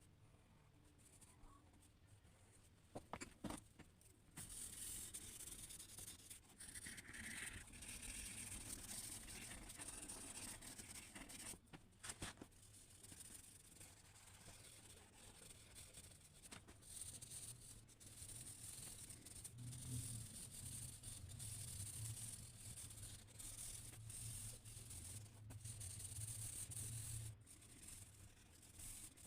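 Faint scratching of a drawing tool stroking across paper, starting a few seconds in after a couple of light taps.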